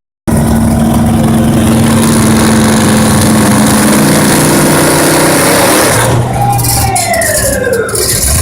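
Pulling truck's engine running loudly at high revs. It holds a steady pitch for a few seconds, climbs a little, then a whine falls in pitch near the end.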